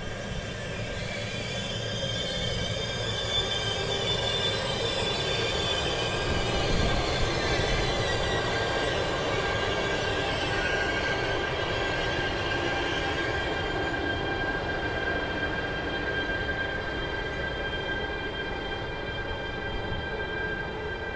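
Pair of E405 electric locomotives rolling slowly past with an intermodal freight train, wheels and brakes giving a steady high squeal over the rumble as the train brakes to keep its block distance from the train ahead.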